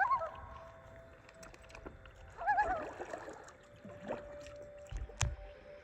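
Loon giving two quavering tremolo calls, one at the start and one about two and a half seconds in, then a long steady held note near the end. A short low thump about five seconds in.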